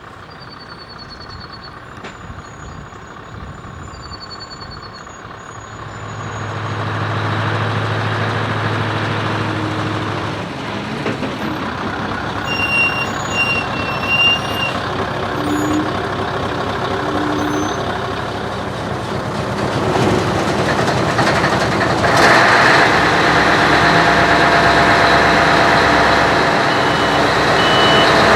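Heavy truck engine running, growing louder from about six seconds in and loudest over the last few seconds. A short run of reversing beeps sounds near the middle and again near the end. High chirps are heard before the engine comes in.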